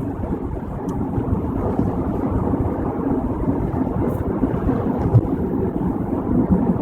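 Steady road noise of a car driving on a rainy highway, a low rumble of tyres and engine heard from inside the cabin.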